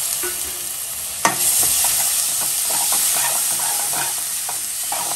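Chopped tomatoes sizzling in hot oil in a metal kadai while a slotted metal spatula stirs and scrapes them round the pan. There is a sharp knock about a second in, and then a run of short scrapes.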